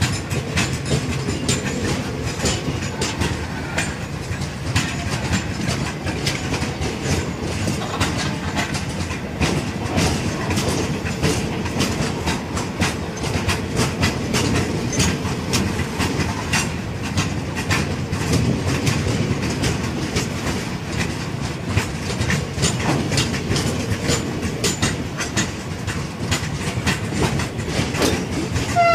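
Loaded open-top freight wagons of a heavy chrome train rolling past, their wheels clicking over the rail joints in a continuous clickety-clack over a low rumble.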